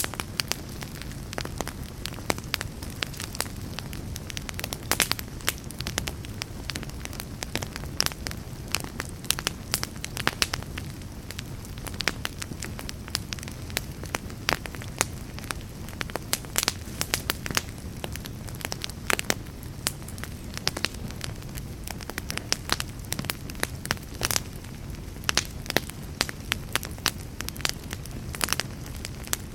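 Wood fire burning in a fireplace: logs crackling with frequent sharp pops over a low, steady rumble.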